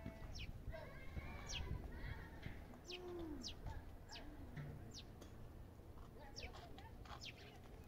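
Small birds chirping: a scattered string of short, high calls, each falling quickly in pitch, about one to two a second.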